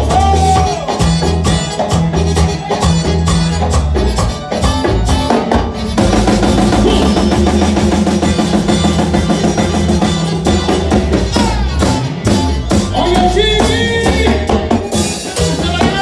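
Panamanian música típica played by a band: drums and percussion keep a steady beat, and about six seconds in the texture changes suddenly to dense, rapidly repeated melodic notes, with a voice coming in near the end.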